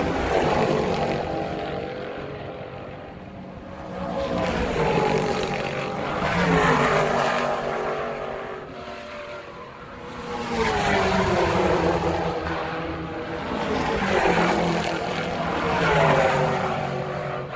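Motorcycle engine running hard, swelling and dropping in pitch several times, about every four seconds, as it revs and passes.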